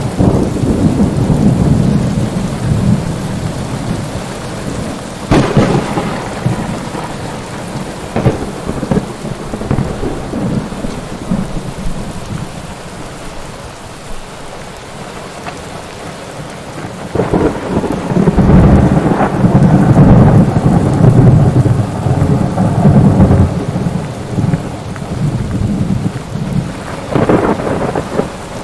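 Thunderstorm: steady rain with thunder. Sharp cracks come a few times, and long low rolling rumbles build, loudest in the second half.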